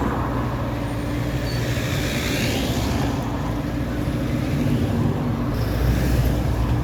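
Road vehicle engines, most likely tractors, running steadily at low revs, with the noise of a passing vehicle swelling and fading about two to three seconds in.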